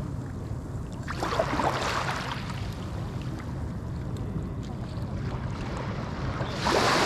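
Small Atlantic waves breaking and washing up a sandy beach, over a steady low rumble of surf. One wave washes in about a second in and fades, and the next breaks near the end.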